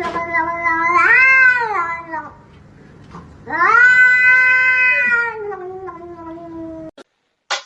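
A cat yowling in two long, drawn-out calls. The first bends up and then down in pitch about a second in. The second starts about three and a half seconds in and slides down at its end.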